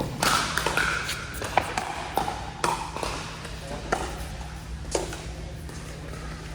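Pickleball paddles hitting a plastic pickleball during rallies: a run of sharp pops at irregular spacing, some of them loud, over faint background voices.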